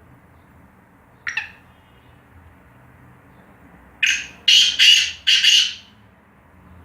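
Black francolin calling: one short note about a second in, then a loud phrase of four quick, harsh notes about four seconds in.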